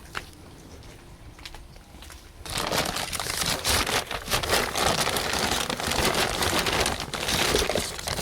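Peanuts in the shell pouring into a squirrel feeder. After a few light clicks, a dense rattling clatter starts about two and a half seconds in and keeps going.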